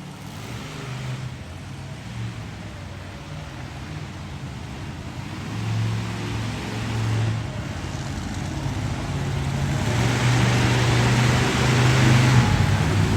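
Monster truck engine running and revving in bursts, growing louder and fuller near the end.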